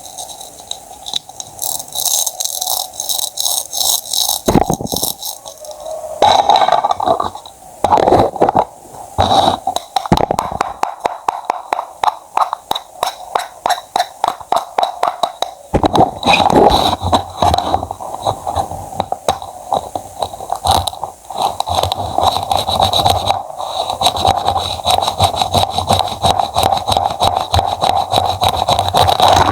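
Knife cutting fruit and vegetables on a cutting board: a long run of slicing and chopping strokes, in places fast repeated chops, with scraping sounds between them.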